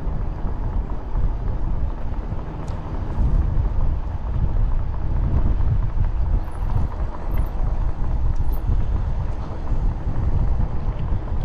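Steady low rumble of wind buffeting a cyclist's microphone while riding, mixed with road noise.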